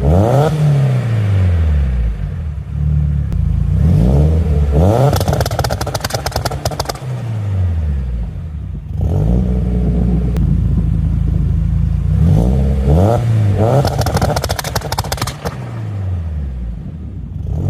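Mk1 Audi TT's forged 1.8-litre turbo four-cylinder with a GTX3076R turbo and a 3-inch exhaust, running and revved about four times, each rev rising sharply and falling back to a steady idle.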